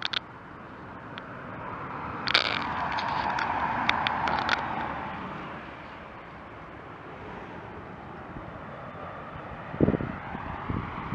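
A vehicle passing by: a steady rush of noise swells over a few seconds and fades, with a few sharp clicks over it.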